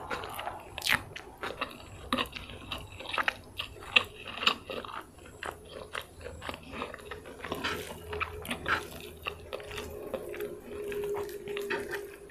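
Close-miked eating of fried rice vermicelli with bean sprouts and peanut sauce: irregular chewing and biting with crisp crunches and many small wet mouth clicks.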